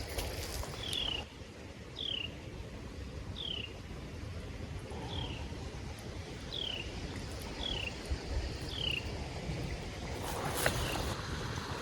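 A songbird whistles a series of short, clear notes that slide downward, about one a second, over a low steady rumble. There is a brief crackle near the end.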